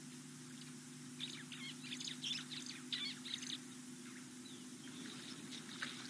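Small wild birds chirping: a rapid run of short, high calls lasting a couple of seconds, then a second brief burst near the end, over a steady low hum and hiss.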